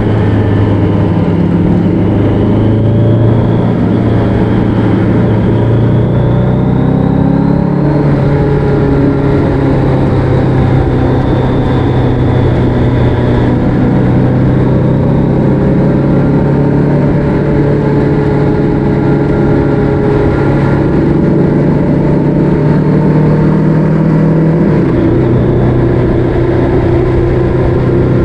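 Motorcycle engine running at road speed under steady wind and road noise. The engine note shifts as the throttle changes, settling lower about 8 seconds in and changing again about 25 seconds in.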